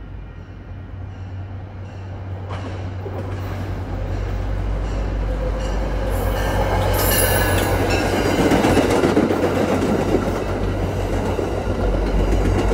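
MBTA commuter train approaching and passing close by. Its rumble grows steadily louder, with a high squeal from the wheels on the rails about halfway through.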